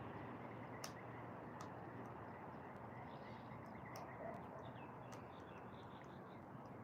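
Quiet outdoor background with faint, distant bird calls and a few soft clicks.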